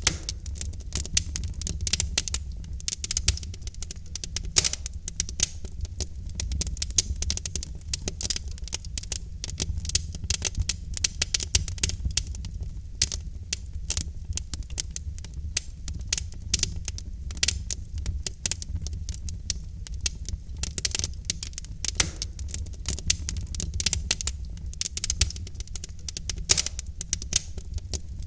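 Wood fire of burning logs crackling and popping, dense irregular snaps over a low rumble of the flames.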